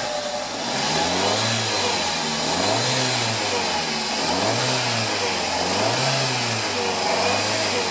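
Fiat Uno 1.4 Evo's four-cylinder engine being revved in repeated throttle blips, its pitch rising and falling several times about every second and a half. The revs speed the flush water through the engine so that the over-full coolant reservoir level drops.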